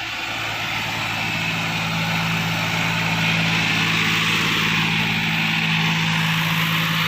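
Diesel tractor engine running steadily, growing louder over the first few seconds and then holding.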